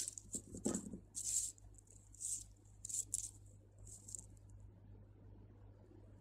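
Beading thread being drawn through small acrylic and crystal beads while hands handle them: about six short, scratchy rustles and light clicks in the first four seconds.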